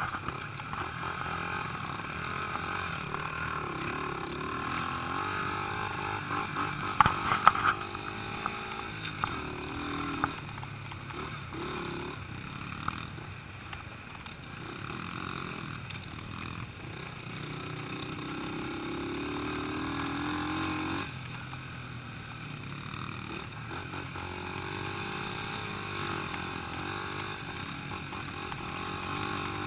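Small pit bike engines running as the bikes ride round, the engine note rising and falling with the throttle and growing louder and fainter as they pass. A few sharp knocks come about seven seconds in.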